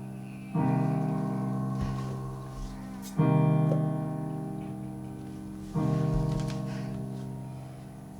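Piano or keyboard playing slow sustained chords: three chords struck about two and a half seconds apart, each ringing on and fading away.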